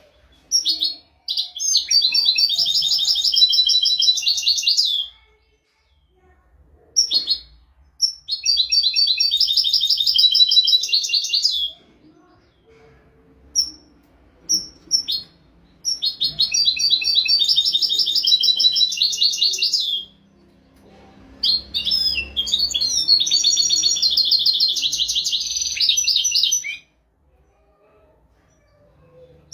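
European goldfinch singing: four long phrases of rapid twittering trills, each lasting about four to five seconds, separated by short pauses with a few single call notes.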